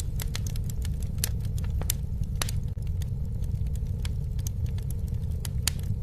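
Campfire crackling: sharp, irregular pops and snaps over a steady low roar.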